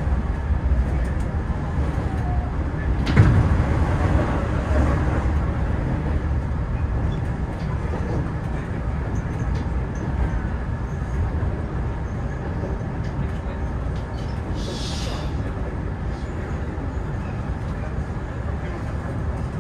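Hanshin 9000 series electric train running over a steel truss bridge, heard from inside the driver's cab as a steady low rumble of wheels on rail. A sharp knock comes about three seconds in, and a short hiss about fifteen seconds in.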